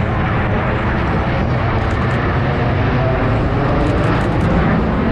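Loud, steady jet aircraft engine noise.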